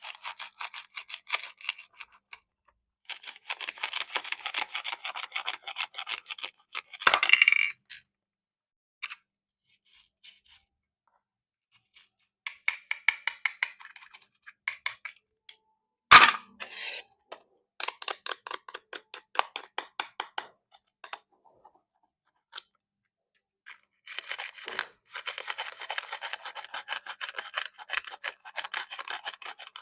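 Plastic toy fruit being cut with a plastic toy knife: several runs of rapid fine crackling clicks, each a few seconds long, with pauses between them. Two sharper clacks come about seven seconds in and about sixteen seconds in, the second the loudest.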